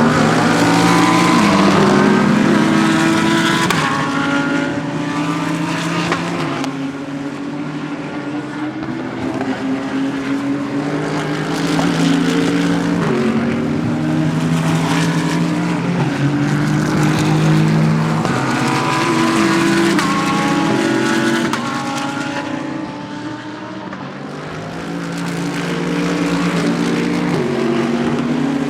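GT3 race car engines at racing speed, several cars in turn, the pitch stepping up and down through gearshifts as they pass.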